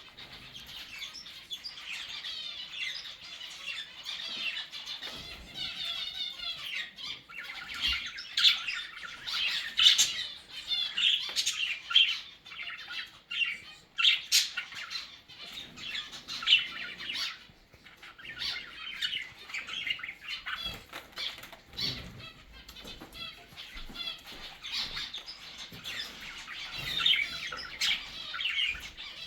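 A mixed flock of zebra finches, cockatiels and budgerigars calling all at once: a dense, steady chatter of short high chirps and squawks, with wings flapping and sharp clicks now and then.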